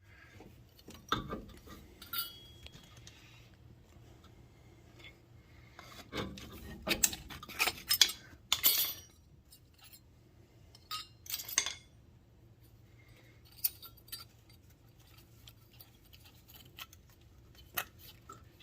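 Light metallic clinks and knocks at irregular intervals, about a dozen short ones with quiet between them, typical of metal tools or parts being handled.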